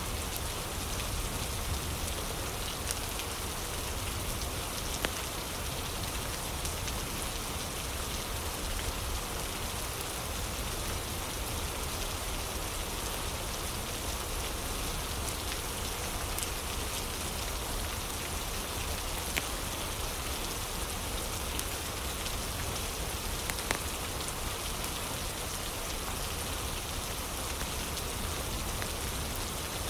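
Steady rain ambience, with a few sharp crackles of a wood fire popping now and then.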